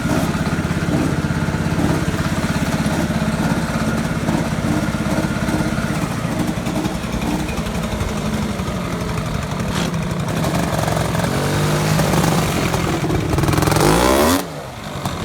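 Tractor engine running steadily, revving up toward the end, then its pitch sweeps down and the sound drops off sharply about a second before the end.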